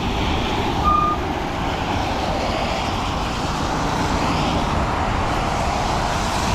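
Steady wind and wet-road noise on the helmet-mounted camera mic while the Surron X electric dirt bike is ridden in the rain, with a short high-pitched squeak about a second in.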